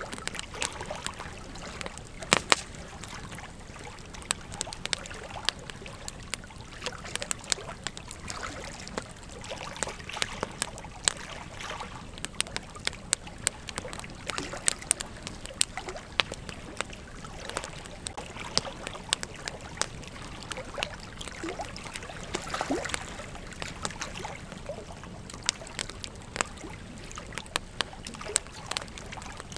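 Campfire crackling: wood burning with frequent sharp pops and snaps, irregularly spaced, over a steady soft hiss.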